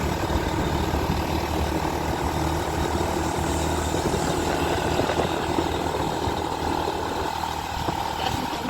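Motorcycle engine running steadily under way, with road noise; it eases slightly near the end.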